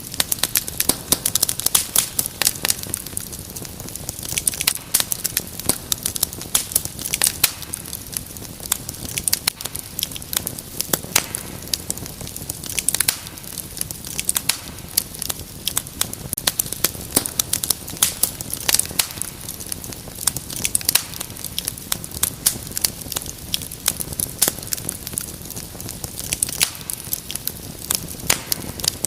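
Wood fire crackling in a fireplace: dense, irregular sharp pops and snaps over a steady soft hiss of burning.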